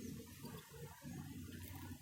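Faint outdoor ambience: an uneven low rumble, with a few faint, short high chirps of small birds and a faint tick near the end.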